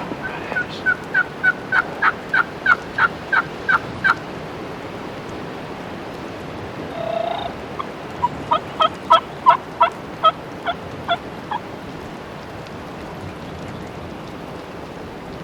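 Wild turkey yelping: two runs of about a dozen evenly spaced notes each, roughly three a second, the second run a few seconds after the first.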